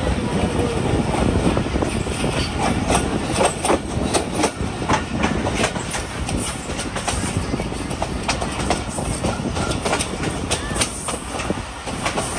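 Passenger train rolling on the track: a steady low rumble with irregular sharp clicks and clatter as the wheels pass over rail joints.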